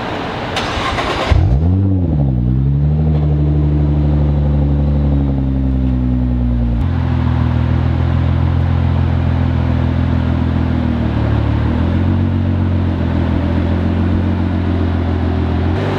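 Nissan GT-R's twin-turbo V6, on an aftermarket exhaust, starting up: it catches about a second in with a quick rev flare that rises and falls, then settles into a steady idle. The idle drops a step in pitch about seven seconds in as the car rolls slowly forward.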